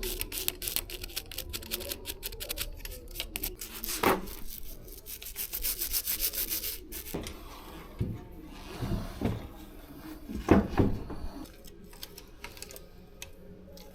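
Bicycle chain being scrubbed clean: rubbing with rapid, even clicking for the first several seconds, then a few knocks and handling noises.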